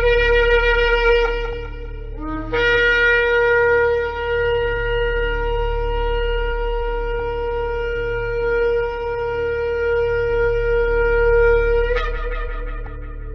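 Shofar (ram's horn) blasts. One held note ends about two seconds in, and a brief lower note follows. A long steady blast of about nine seconds then breaks upward in pitch at the end and dies away with an echoing tail, over a faint low hum.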